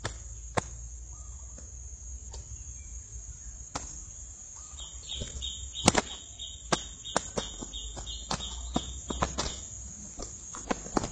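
Steady high insect drone with many sharp clicks and knocks scattered through it, and a fast pulsing high trill in the middle.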